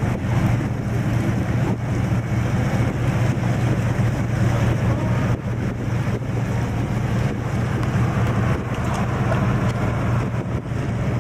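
Steady low engine hum, with wind buffeting the microphone.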